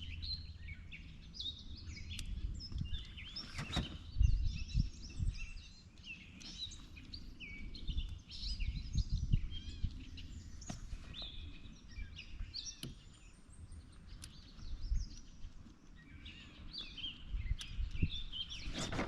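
Several birds singing together, a steady stream of short chirps and whistles, over a low rumble with scattered dull knocks.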